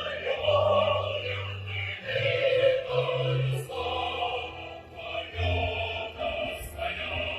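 Music with a choir singing, held notes moving from one pitch to the next.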